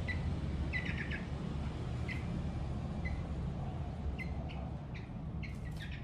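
Small pet birds giving short high chirps, about a dozen scattered through, some in quick little runs, over a steady low hum.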